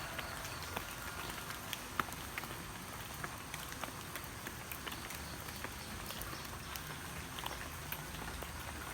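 Light rain falling steadily, an even hiss with scattered individual drops ticking on a hard surface, a slightly sharper drop about two seconds in.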